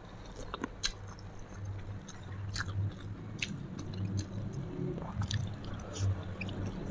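A person chewing food close to the microphone, with scattered short mouth clicks and smacks.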